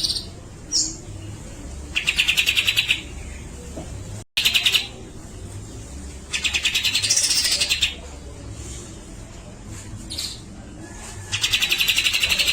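Grey-cheeked bulbul (cucak jenggot) singing: loud, rapid rattling trills about a second long, repeated four times, with short single chirps in between.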